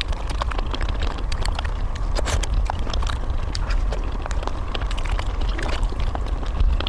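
A person eating chuanchuan skewers: chewing and mouth sounds with many irregular sharp clicks and smacks over a steady low rumble.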